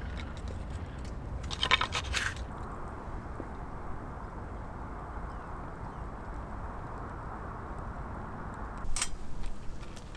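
Camp cookware being handled: two short clusters of light clinks and crunches, one about two seconds in and one near the end, over a steady low background hiss.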